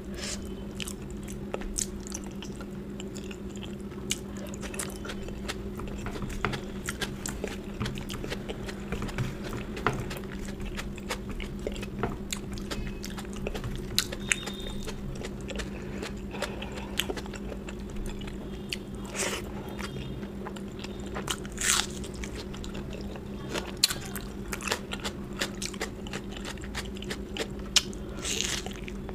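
Close-miked chewing and mouth sounds of a person eating, with many small wet clicks and smacks over a steady low hum. There are a few louder rushes of breath-like noise about two-thirds of the way in and near the end.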